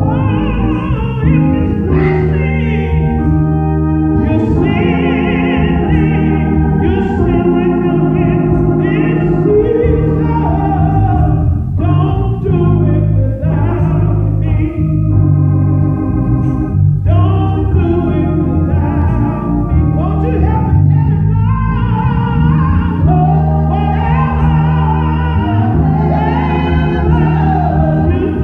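Church music: sustained organ chords with singing over them.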